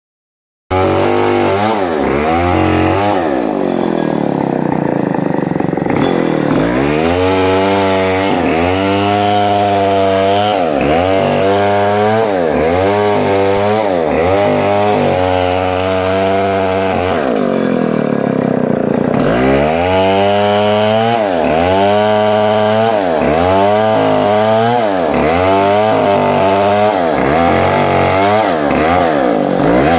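Two-stroke chainsaw cutting into a large trembesi (rain tree) trunk. The engine's pitch dips and recovers about once a second as the chain bites and frees, with two longer, deeper dips where it bogs under load.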